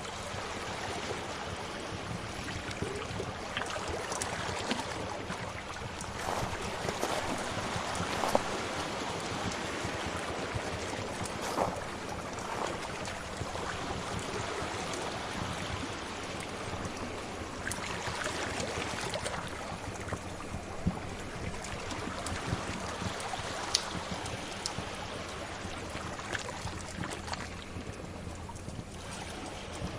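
Sea waves washing in and swelling a few times, mixed with the scattered sharp pops of a crackling fire.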